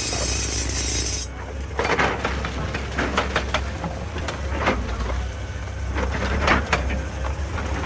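Excavator engine running steadily, with irregular knocks and clatter of rock being worked. A high hiss cuts off suddenly about a second in.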